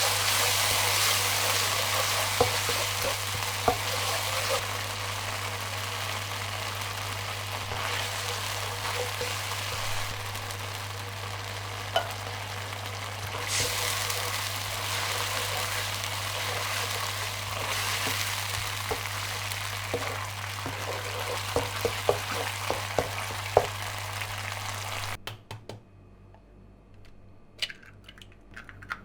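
Food sizzling as it fries in oil in a pan, with scattered light taps and scrapes of a utensil. The sizzle cuts off suddenly near the end, leaving a few faint clicks.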